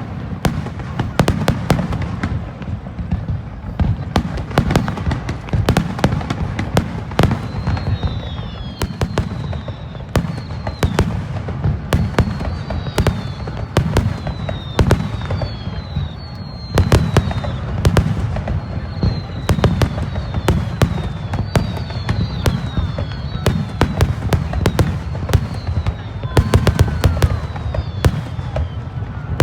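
Fireworks display in a dense barrage: rapid bangs and crackling of shells bursting over a continuous low rumble. From about eight seconds in, many short falling whistles sound among the bursts.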